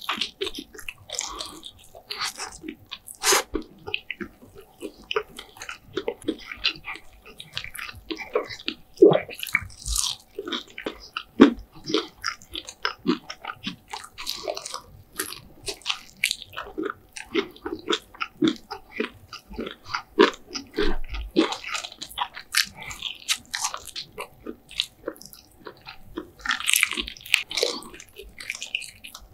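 Close-miked eating of KFC food: a person biting and chewing, with many short, irregular crunches.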